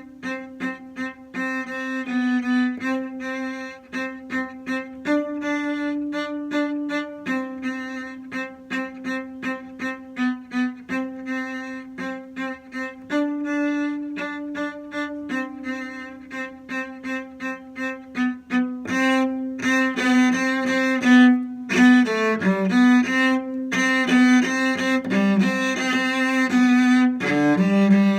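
Cello bowing a slow folk melody in three time, mostly long held notes. About two-thirds of the way through it gets louder, with quicker note changes.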